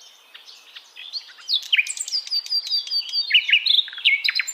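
A songbird singing a fast, varied song of whistled and chirping notes, growing louder about a second and a half in.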